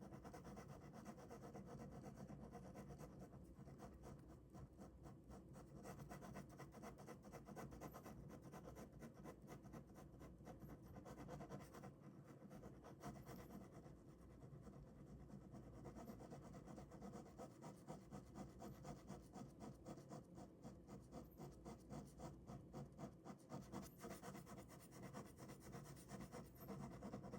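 Ballpoint pen scratching over paper in quick, short drawing strokes, faint, with the strokes coming in closer, regular runs near the end.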